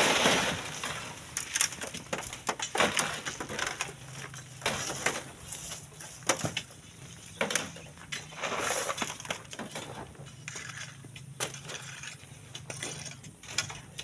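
Sand and gravel being dug by hand: irregular crunching scrapes, about one every second or two, with sharp clicks of stones knocking together.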